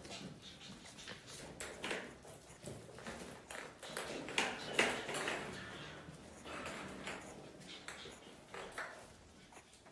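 Eight-week-old Biewer terrier puppies moving about in their pen: scattered clicks and knocks, with a few short, high puppy sounds in the middle, the loudest about five seconds in.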